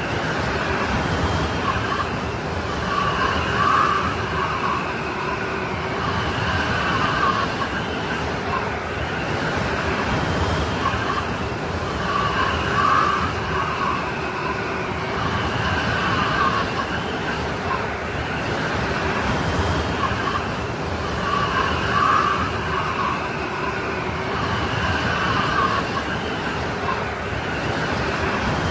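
Strong snowstorm wind blowing steadily, with a howling, whistling edge that swells in gusts about every nine seconds.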